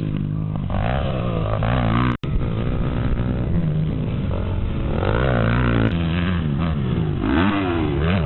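Motocross dirt bike engines revving, the pitch rising and falling again and again as the throttle opens and closes. The sound cuts out for an instant about two seconds in.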